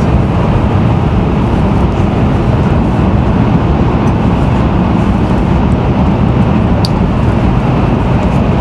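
Steady, loud rumble of a Shinkansen bullet train heard from inside the passenger cabin while it runs, with a single short click about seven seconds in.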